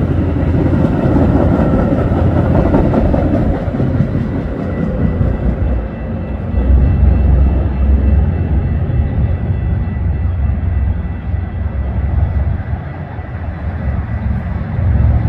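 Train rolling past, a steady rumble and rail noise that swells and eases, with a faint steady high-pitched tone above it.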